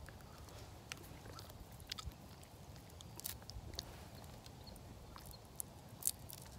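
A person chewing a mouthful of fire-roasted sweet potato, quietly, with scattered small clicks and crackles as the charred skin is handled.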